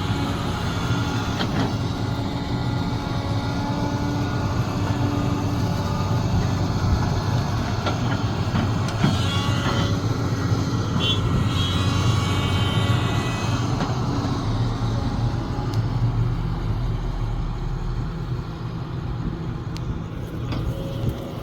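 Sumitomo SH370LHD-6 excavator running, a steady diesel engine drone with higher whining and a few short squeaks from the machine, getting quieter over the last few seconds.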